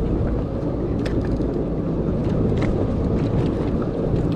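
Steady low rumble of a boat's motor running, mixed with wind and water noise, with a few faint clicks.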